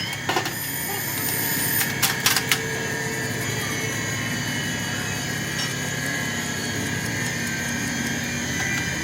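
A workshop machine running steadily, a motor hum with a steady whine, with a few sharp clicks in the first few seconds.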